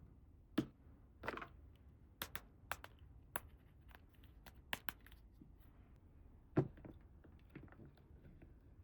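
Light, irregular clicks and taps of small toy playset pieces being handled and set down, about a dozen in all.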